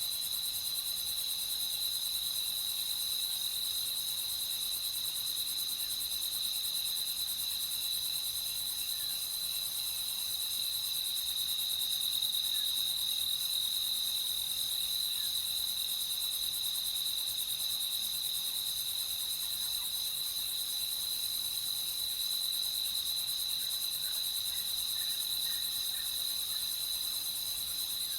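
Chorus of night crickets: a steady, unbroken high trill.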